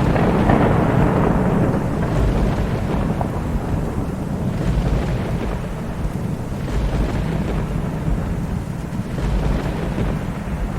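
Thunder rumbling continuously over steady rain, with a loud surge of rumble right at the start and slower swells after.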